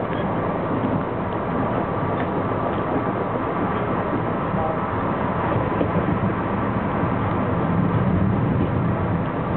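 Metro-North M3 electric multiple-unit train running along the track, heard from inside its leading cab: a steady noise of the moving train and its wheels on the rails.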